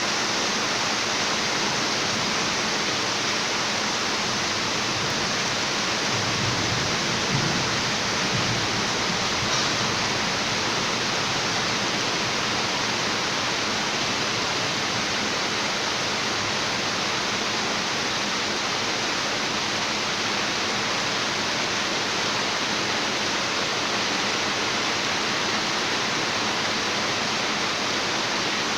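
Steady rushing of running water, an even, unchanging hiss.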